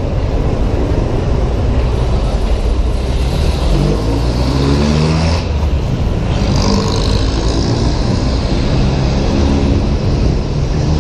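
Honda PCX 125 scooter's single-cylinder engine running under way, its note rising twice as it accelerates, with wind rushing over the helmet-mounted microphone.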